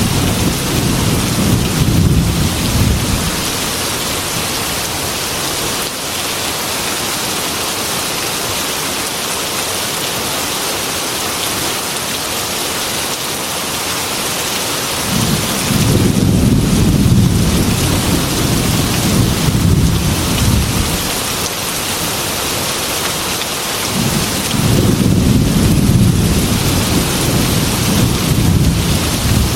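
Heavy rain pattering steadily on a glass window, with rolling thunder rumbling three times: once fading out in the first few seconds, once for several seconds around the middle, and again near the end.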